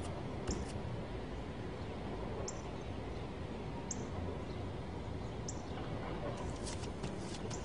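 Steady background ambience with a faint, short, high chirp about every second and a half, as from a small bird.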